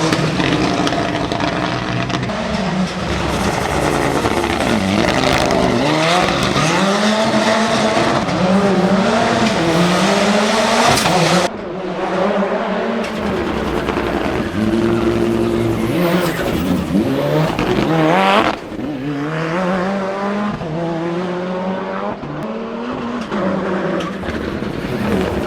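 Mitsubishi Lancer Evo VIII hill-climb prototype engine revving hard, the pitch repeatedly climbing and dropping as it shifts through the gears. The sound changes abruptly twice, about eleven and eighteen seconds in.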